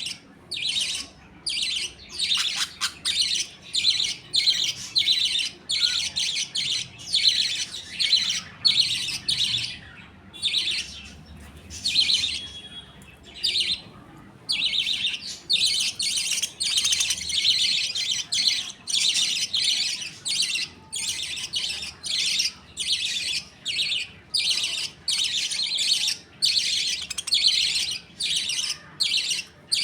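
A flock of budgerigars chattering, with rapid chirps and warbles several times a second and a short lull about halfway through.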